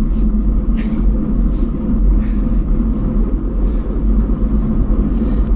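Steady wind rumble buffeting a GoPro's microphone on a bicycle ridden at speed, with a few faint, short higher sounds over it.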